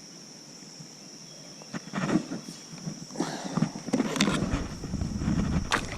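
Insects keep up a steady high-pitched drone. From about two seconds in come irregular knocks and rustles of handling in a kayak, and a low rumble joins about four seconds in.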